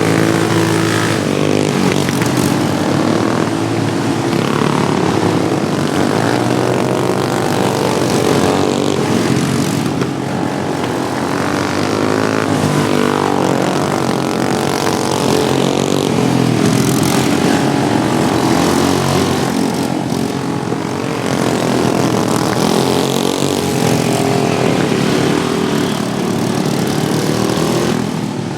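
Several modified Wheel Horse racing lawnmowers' small engines running together in a race, their pitch repeatedly rising and falling as they rev and ease off around the track.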